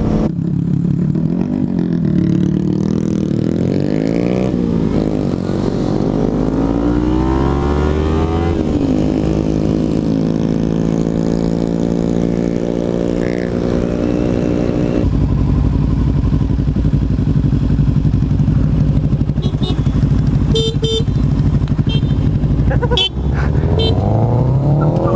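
Kawasaki Ninja 300 parallel-twin engine heard from the rider's seat while riding. Its pitch rises and falls through gear changes, climbs slowly, then drops about halfway through and holds steady at cruise, rising again near the end.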